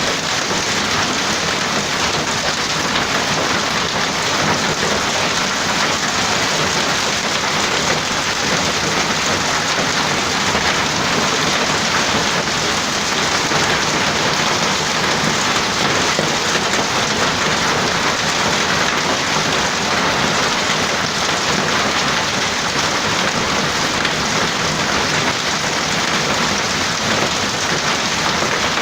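Hail falling hard: a steady, dense din of stones striking surfaces, unchanging throughout.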